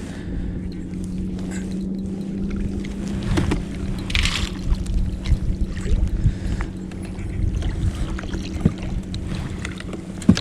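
Steady motor hum from a boat on the water, strongest for the first three seconds and fainter after that, with scattered knocks and a short splash-like hiss about four seconds in.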